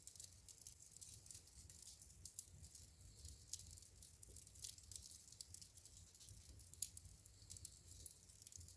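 Wood fire in a fireplace crackling faintly: a steady run of small pops and ticks, with two louder snaps, about two and a half seconds in and near seven seconds, over a low rumble of the flames.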